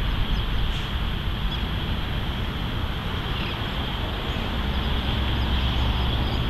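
Wind buffeting the microphone: a steady, rumbling rush of noise with no distinct events.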